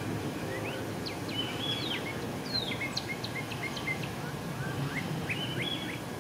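A songbird singing a varied song of short sliding notes, with a quick run of short repeated notes about two to three seconds in and another phrase near the end, over a steady low background rumble.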